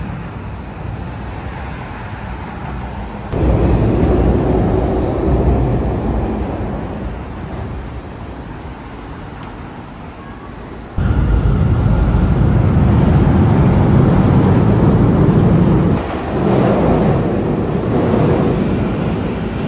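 Train and street noise: commuter trains rumbling past on elevated tracks and along a station platform, with road traffic, in short clips that change abruptly about three seconds in and again about eleven seconds in.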